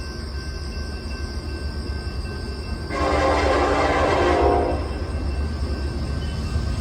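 Locomotive air horn sounding one blast of about two seconds, starting sharply about three seconds in, over the steady low rumble of a train.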